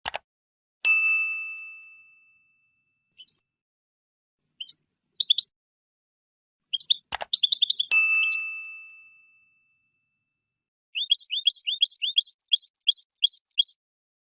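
European goldfinch calling in short scattered chirps, ending in a quick twittering run of about six notes a second. Two bell-like dings, each just after a sharp click, ring and fade about a second in and again about halfway through.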